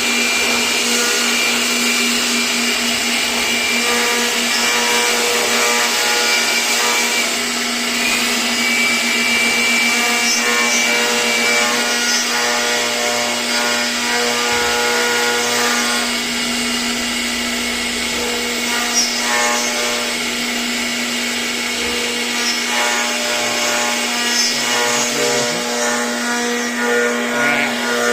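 CNC router spindle cutting wood: a steady machine hum with a dense hissing cutting noise, and higher tones that come and go as the bit moves.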